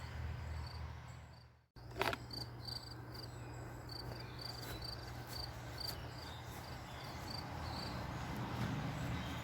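A cricket chirping in a steady rhythm, about two to three short high chirps a second, over a low steady hum. The sound cuts out completely for a moment about one and a half seconds in.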